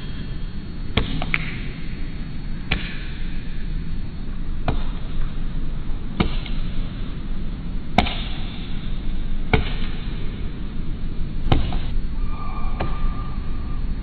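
Woodpecker striking wood with its bill in single hard knocks, one every second and a half to two seconds, over a steady low rumble.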